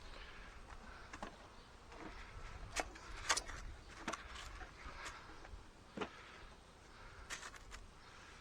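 Honey bees buzzing faintly and steadily around an open hive. Over the buzzing come several sharp clicks and knocks as hive parts are handled while the top goes back on, the loudest about three seconds in.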